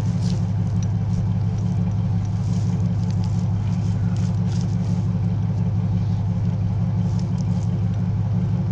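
A parked vehicle's engine idling with a steady low hum, with faint clicks and rattles from a jogging stroller being handled beside it.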